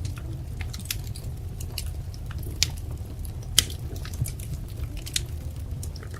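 Wood fire crackling: irregular sharp pops and snaps over a steady low rumble, with two louder pops about a second apart near the middle.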